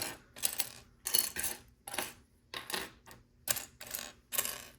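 Loose plastic LEGO pieces clattering as a hand sifts through them, in a series of short rattles, about two a second.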